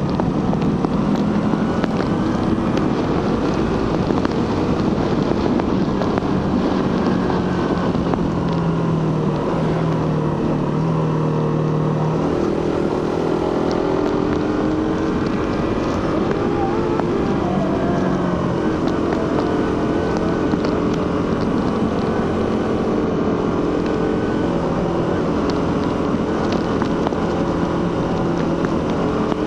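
Suzuki GSX-R150's single-cylinder 150 cc engine through its stock exhaust, heard from the rider's seat while riding along steadily, with wind noise over the microphone. The engine note holds steady, changes pitch about twelve seconds in, then rises and falls a few times before settling.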